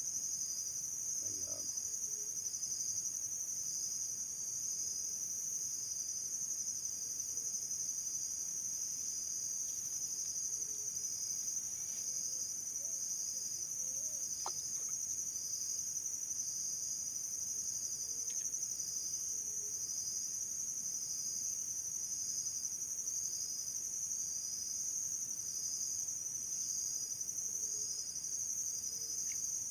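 Insects, crickets or the like, trilling in a steady high-pitched chorus with a regular pulse about once a second.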